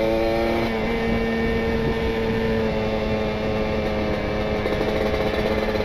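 A Kawasaki Ninja RR's 150 cc two-stroke single, run on a rich ("wet") PWK28 carburettor setting through an R9 aftermarket exhaust, running at steady low revs with the throttle held back on a steep descent. The engine note dips slightly about a second in and then holds steady over a constant rumble of riding noise.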